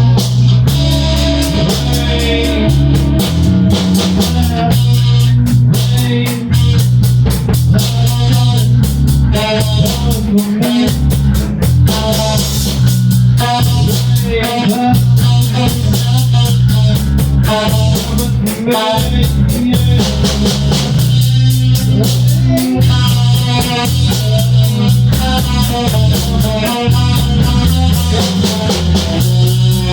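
Rock band playing: electric guitar over a steady drum-kit beat and bass guitar.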